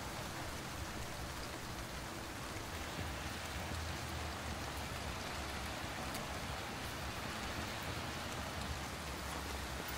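Steady rain falling on pavement, picked up by the DJI Pocket 3's built-in microphones.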